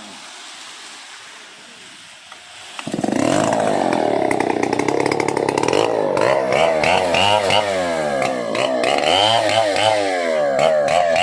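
Stihl 070 two-stroke chainsaw starting up about three seconds in, after a steady hiss, then running with its throttle blipped so the engine note rises and falls over and over.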